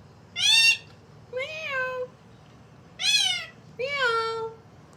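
A parrot imitating a cat's meow: four meows, each rising then falling in pitch, the second and fourth longer and drawn out.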